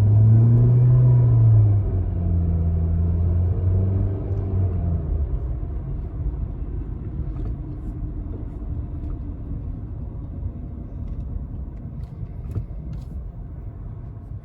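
Engine and CVT of a 2017 Nissan car droning inside the cabin: the low drone rises and falls in pitch about a second in, holds for a few seconds, then dies away to a quieter steady rumble as the car eases off. The driver describes this transmission as slipping, grinding and whining.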